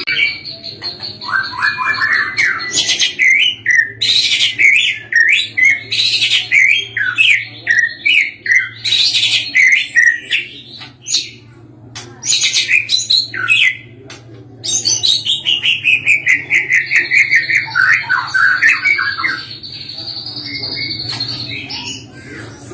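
White-rumped shama (murai batu) singing a loud, varied song of quick whistled and chattering phrases, with a long falling run of rapid notes partway through and a high steady note held for several seconds near the end.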